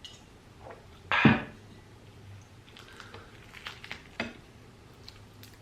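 Eating sounds: a loud short knock or clatter about a second in, then scattered small clicks of utensils and dishes with wet mouth sounds.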